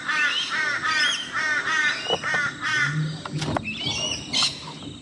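A bird calling: a quick run of short, evenly repeated calls, about three a second, that stops about two and a half seconds in. A few sharp clicks follow near the end.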